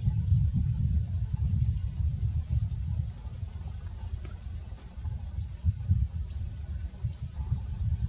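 A small bird calling with short, high chirps that drop in pitch, about six in the stretch and roughly a second apart, over a loud, uneven low rumble such as wind on the microphone.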